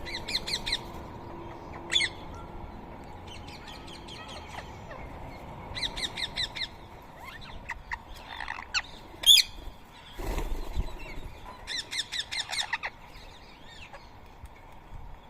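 Rose-ringed parakeets calling: repeated bursts of rapid, harsh squawking notes, several to a second. About ten seconds in there is a short rush of low noise.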